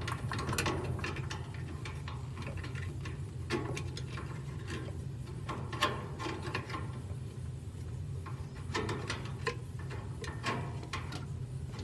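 Small scattered clicks and rattles of clips and metal and plastic parts being handled by feel inside a washing machine during a repair, with a sharper click about six seconds in, over a steady low hum.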